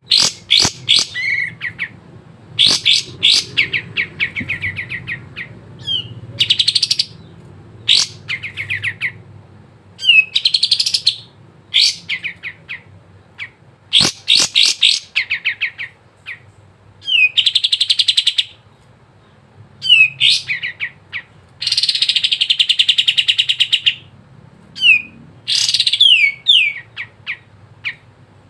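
Kapas tembak bulbul singing in full song: bursts of rapid chattering trills, each a second or two long, broken by short sliding whistled notes, over and over.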